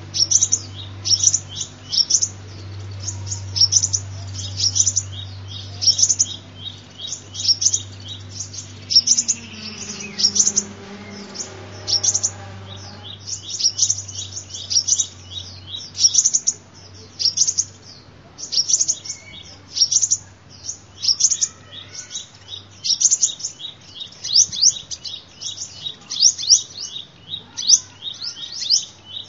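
Sunbird call used as a lure for trapping or attracting sunbirds: a long string of short, high chirps in quick groups, about one group a second. A low hum lies under the first half.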